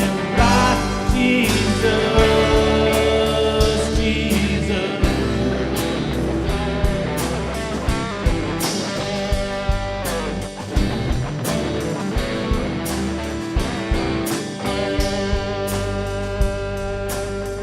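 Live worship band music: guitars, bass and drums playing on with a steady beat, with some singing, as the song winds down.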